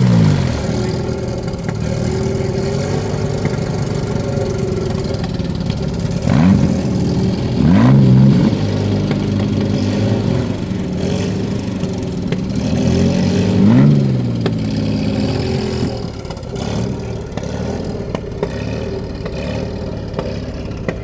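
Car engine idling, blipped up in short revs three times, about six, eight and fourteen seconds in; a held higher rev falls away at the very start.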